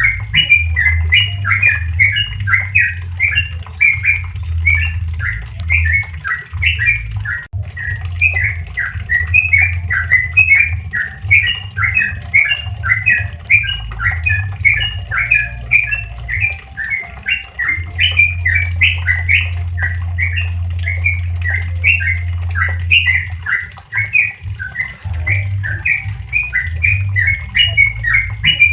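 Yellow-vented bulbul (trucukan) singing its fast 'ropel' song: an unbroken run of short, bubbly up-and-down notes, several a second, over a steady low hum.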